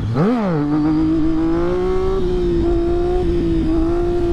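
Triumph motorcycle engine given a quick blip of the throttle, then pulling along at a steady note that rises slowly as the bike rides off, with a few brief dips in the note.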